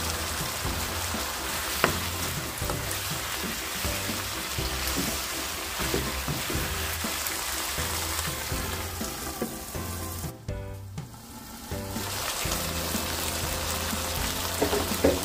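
Chicken pieces sizzling as they fry in a wok, a steady crackle that briefly drops out about ten seconds in.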